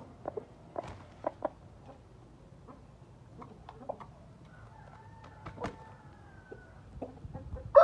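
Gamefowl roosters: scattered short clucks, a faint drawn-out crow about five seconds in, and a loud crow starting right at the end.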